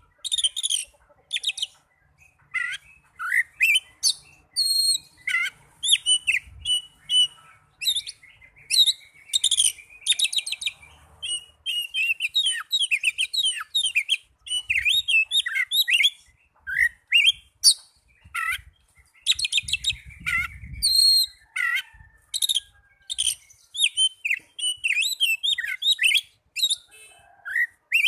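Young Oriental magpie-robin (kacer) singing: a rapid, varied run of chirps, sweeping whistles and trills, in phrases broken by short pauses.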